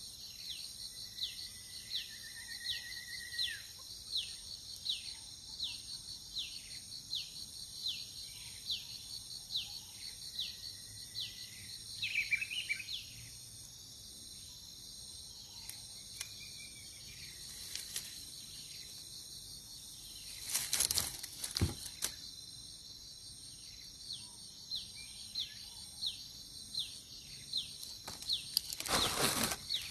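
Steady high-pitched insect drone with a long run of short, downward-sweeping chirps repeating about every half second to second. There are two loud rustling bursts, one about two-thirds of the way in and one near the end.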